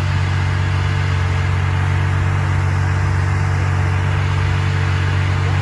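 Ferrari Monza SP1's V12 engine running at a steady low idle as the car creeps along, a deep even hum with no revving.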